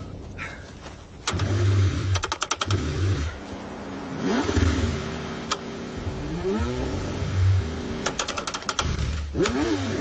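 Car engine being cranked in freezing cold, struggling to start. It comes in repeated low bursts with runs of rapid clicking, and the pitch briefly rises and falls several times.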